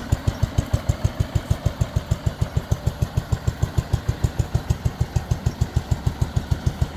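1970 White Town & Country 112 Hydro garden tractor engine idling, with a steady, even beat of about six or seven pulses a second.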